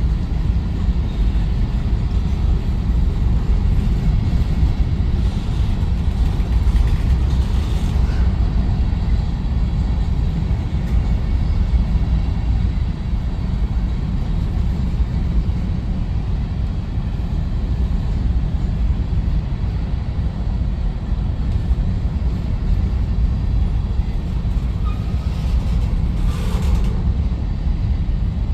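Freight train rolling past: a steady, heavy rumble of cars on the rails, with two faint brief squeals of wheels partway through and near the end.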